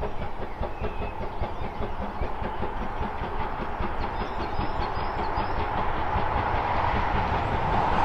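GWR 5541, a 1928 small Prairie tank steam locomotive, working up the line: a fast, even throbbing heartbeat of exhaust beats that grows steadily louder as it approaches.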